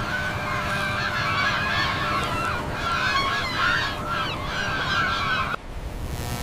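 A flock of birds calling all at once in a dense, overlapping chorus over a steady low rumble; the calls cut off abruptly near the end.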